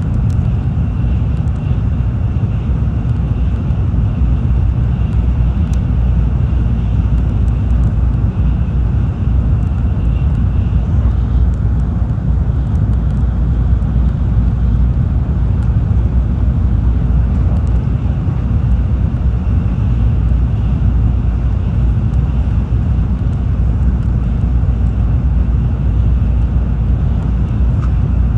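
Tokaido Shinkansen train running steadily, heard inside the passenger cabin: a constant low rumble of wheels on rail with a faint high tone that fades out about ten seconds in and comes back a few seconds later.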